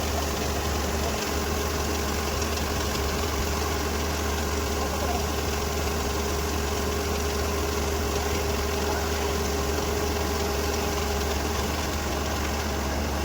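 Farm machine's diesel engine running steadily at constant speed, with a low hum and a steady higher whine above it.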